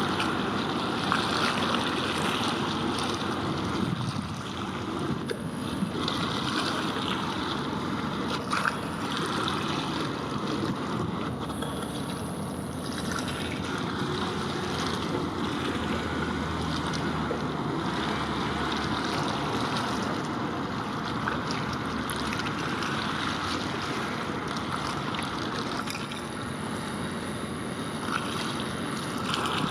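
Steady rushing noise of wind and water, with a faint low hum in the middle stretch.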